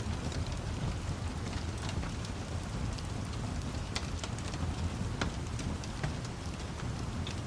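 Steady rain with a continuous low rumble of thunder, and scattered sharp crackles and pops of a wood fire over it.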